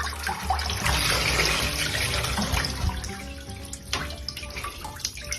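Water running, strongest for the first three seconds, then fainter with scattered small splashes and clicks.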